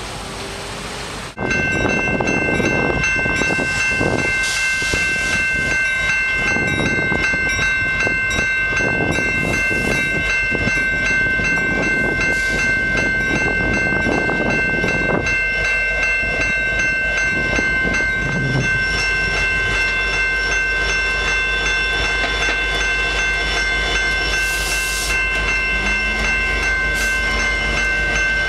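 Train passing close by: rumbling and knocking of wheels on the rails, starting suddenly, with several steady high ringing tones held throughout.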